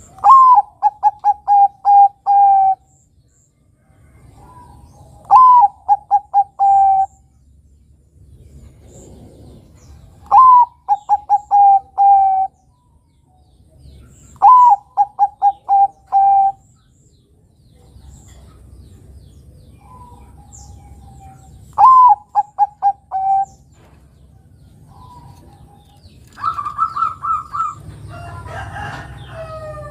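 Zebra dove (perkutut, Bangkok type) singing its cooing song in phrases about every four to five seconds. Each phrase is a brief rising note followed by a quick run of short clipped coos. Near the end a different held, higher call and a jumble of sound break the pattern.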